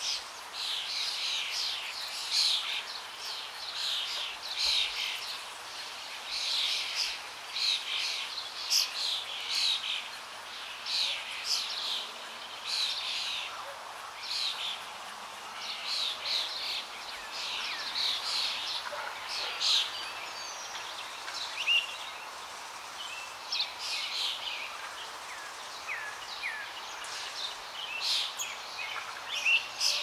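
Small birds chirping and calling in a dense, continuous chorus of short, high notes over a soft, steady background hiss.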